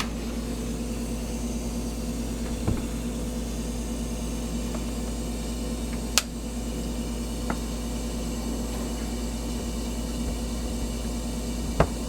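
A steady mechanical hum with a constant low tone, broken by a few short sharp clicks: one about a quarter of the way in, a louder one around halfway, a faint one soon after, and a sharp one near the end.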